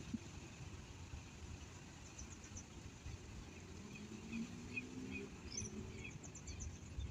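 Faint birds chirping in outdoor background noise, with a quick high trill twice and a low hum midway.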